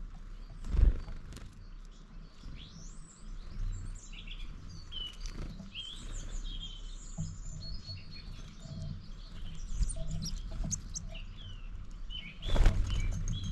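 Several small birds chirping and singing in quick overlapping notes, over a low rumble. Two loud bumps or buffets hit the microphone, about a second in and near the end.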